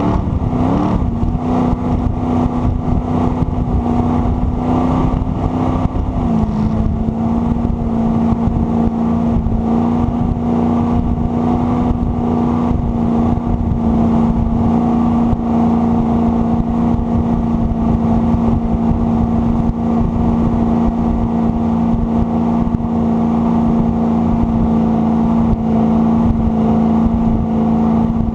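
Jet boat engine running steadily under way, its pitch wavering briefly at the start and stepping slightly lower about six seconds in, then holding steady, over a constant rumble of wind and water.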